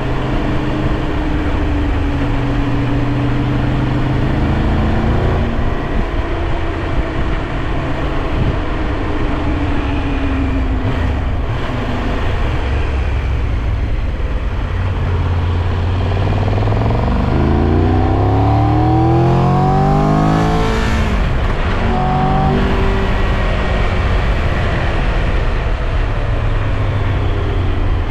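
Triumph Tiger 1200 Rally Pro's three-cylinder engine running under way over wind rush. Past the middle the revs climb steeply as the bike accelerates, break off briefly as if for a gear change, then climb again.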